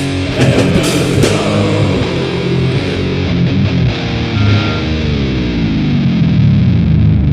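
Heavy metal music with distorted electric guitar. A few drum hits come in the first second or so, then a chord rings on and slides down in pitch toward the end as the song closes.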